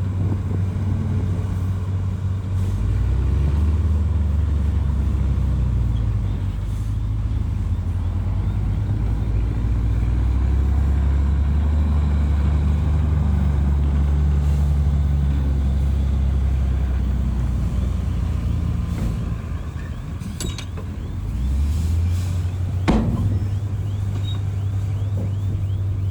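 Heavy diesel earth-moving machinery running under changing load, the engine note shifting up and down, dipping and then picking back up a little after two-thirds of the way in. A single sharp clank comes shortly after.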